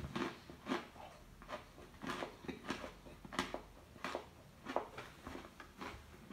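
A person chewing popcorn with the mouth open: a loud run of crisp crunches, about one or two a second.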